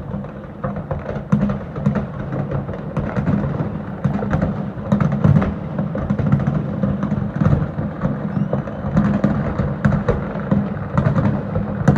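Fireworks display bursting in a dense, continuous barrage of bangs and crackles over a low rumble.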